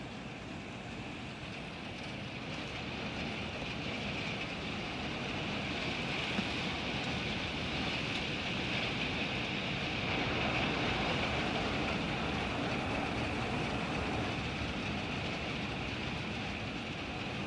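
Hail falling: a steady hiss of hailstones striking surfaces, growing a little louder toward the middle, with one sharp tick about six seconds in.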